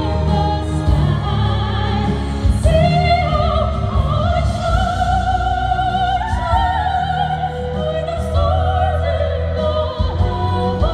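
Two female voices singing in harmony in a classical, operatic style, holding long notes with a wide vibrato over a steady instrumental accompaniment with a low bass.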